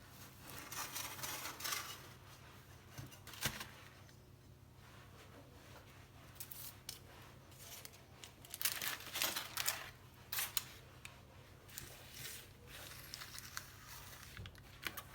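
Irregular rustling and scraping handling noises, with a sharp click about three and a half seconds in and a busier patch of rustles about two-thirds of the way through, over a faint steady low hum.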